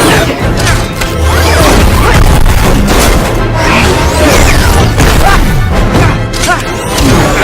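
Loud action-film soundtrack: a dramatic score mixed with booms and crashing impacts.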